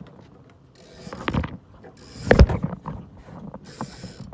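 Small sailboat's rigging at work: creaks and clicks of lines running through blocks, with a heavy knock about two seconds in and short bursts of hiss.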